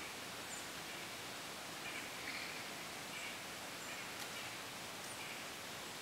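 Faint, short bird calls scattered through a steady outdoor hiss.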